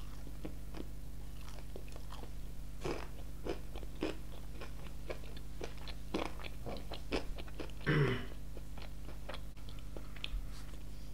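Close-miked chewing of KFC fried chicken: wet mouth clicks and crackles of the breading being chewed, with one louder, short mouth sound about eight seconds in.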